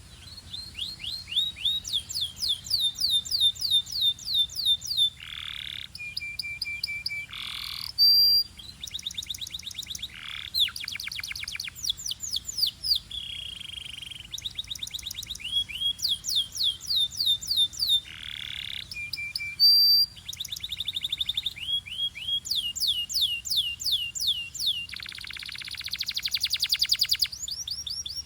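A Belgian canary singing a long, continuous song. It is made of runs of quickly repeated sweeping notes, fast rattling trills and a few short steady whistles, changing phrase every second or two.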